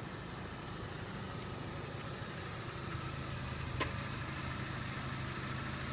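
Chevrolet Sonic's turbocharged four-cylinder engine idling steadily, with a single sharp click nearly four seconds in.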